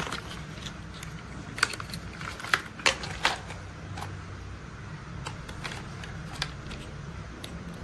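Toy construction vehicles and their parts being handled, giving scattered sharp clicks and light knocks. Most come in a cluster about two to three seconds in, with a few lighter ones later, over a low steady hum.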